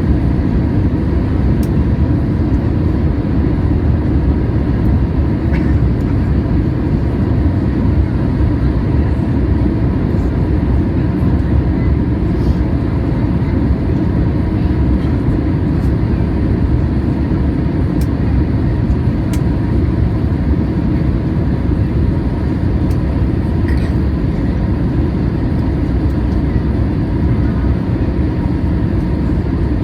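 Steady low rumble of cabin noise aboard a Boeing 737-800, from its CFM56-7B jet engines and the airflow around the fuselage, holding an even level throughout.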